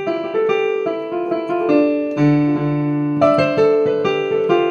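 Keyboard with a piano sound playing an instrumental passage of a slow song: a melody over held chords, with a deep bass note coming in about two seconds in.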